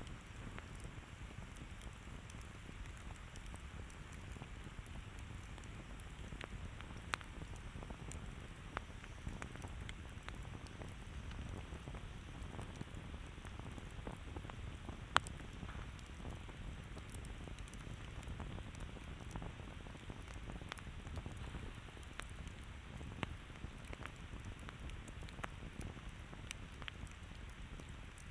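Campfire crackling: a steady low rumble of burning wood under irregular small pops and snaps, with one sharper pop about halfway through.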